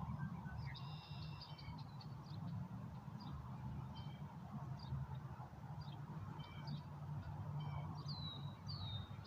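Faint scattered chirps and short calls of small birds, with two high falling chirps near the end, over a low steady rumble.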